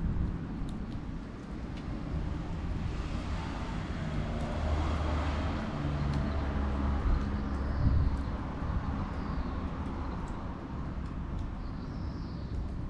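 A distant engine rumble that swells over several seconds in the middle and then fades, as of something passing by.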